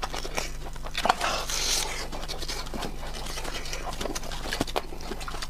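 Close-miked eating of a breadcrumb-coated fried chicken wing: chewing and crunching of the crisp coating with wet mouth clicks, a burst of crunching about a second in.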